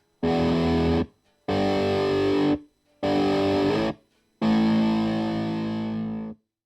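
Electric guitar played through a distortion pedal: four distorted chords, each held about a second and cut off sharply, the last one held about two seconds before it stops.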